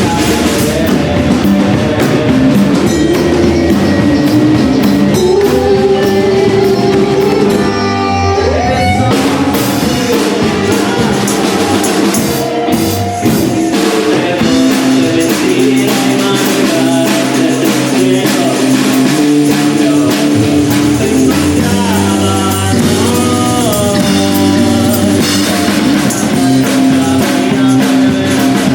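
Live rock band playing: electric guitar and drum kit together, the song running on without a break.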